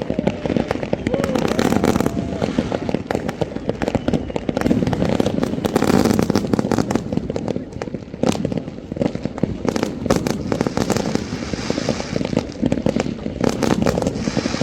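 Fireworks going off without pause: dense crackling and popping with many bangs overlapping.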